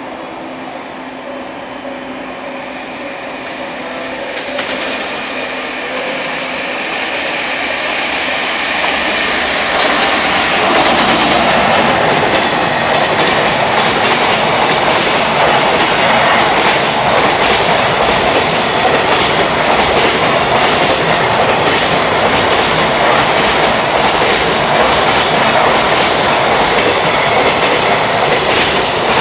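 Electric freight locomotive approaching with a steady humming tone that grows louder over the first ten seconds, then a container freight train passing close at speed: a loud, even rumble of the wagons with a rapid clickety-clack as the wheels cross the rail joints.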